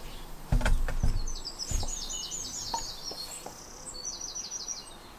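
A songbird sings two runs of rapid, high, repeated chirps. Under it come a few low thumps and sharp clicks from a hand bicycle pump being handled at the tyre valve; the loudest thump comes about half a second in.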